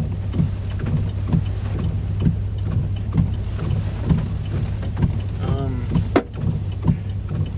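Hurricane rain and wind beating on a car, over a steady low hum, with a regular knock about twice a second. About five and a half seconds in, a short wavering high-pitched sound passes.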